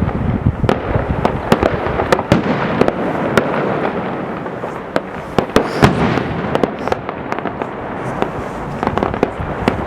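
Many fireworks going off at once: a dense, irregular crackle of sharp bangs and pops over a steady rushing hiss.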